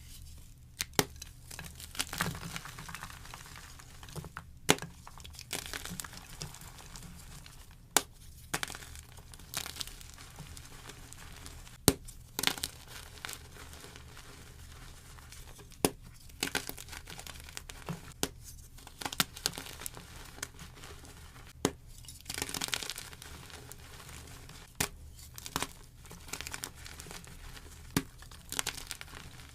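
Blocks of gym chalk being broken and crushed close to the microphone: sharp snaps every few seconds as pieces break off, with soft, crunchy crumbling between them.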